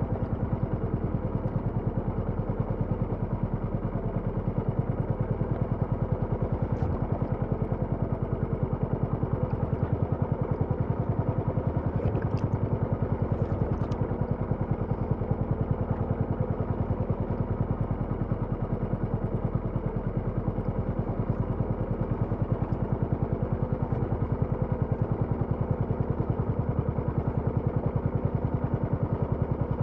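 A small engine running steadily at a constant speed, with an even, rapid pulsing.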